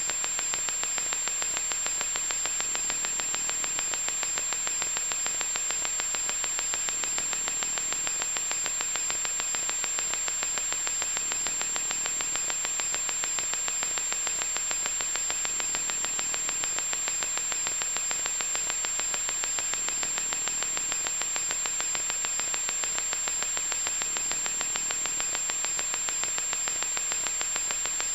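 Loud electronic static: a steady harsh hiss with a fast fine crackle running through it and a thin high-pitched whine held underneath.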